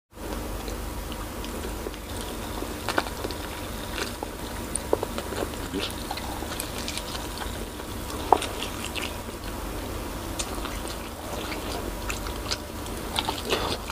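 Close-up eating sounds: biting into and chewing braised pork spare ribs, with scattered small wet mouth clicks and snaps.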